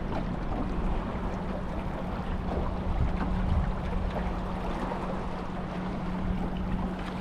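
A steady engine hum, one even tone held for several seconds, over low wind rumble and water noise.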